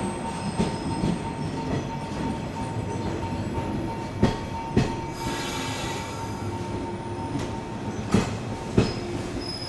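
115-series electric train pulling slowly into the platform, its wheels clacking over rail joints in pairs about half a second apart over a steady rumble and hum. There is a brief hiss about five seconds in.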